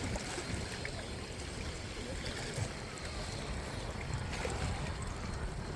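Steady wind and lake water washing at the shore, an even rushing noise with rumble low down.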